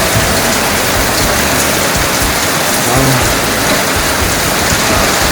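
Heavy rain pouring down in strong wind, a steady loud rush.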